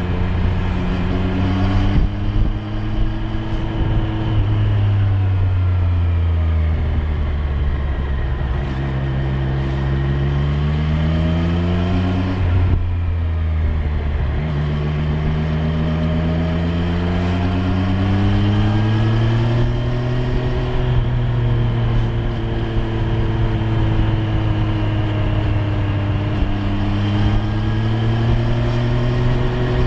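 Triumph Street Triple 765 R's inline three-cylinder engine running under way, its pitch climbing and falling repeatedly with the throttle. About halfway through the note breaks briefly, then picks up lower and climbs again, as at a gear change.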